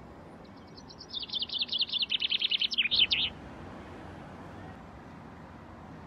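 A small songbird singing a fast trill of short, high repeated notes, about ten a second, that falls in pitch, grows louder and breaks off after about three seconds.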